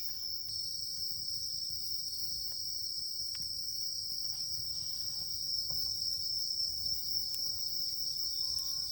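Crickets chirping in a continuous high-pitched chorus, two steady overlapping trills, with a few faint clicks and a low background rumble.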